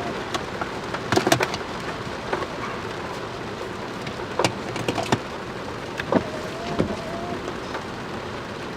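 Heavy rain falling steadily during a thunderstorm, with sharp drops striking a hard surface close by a handful of times.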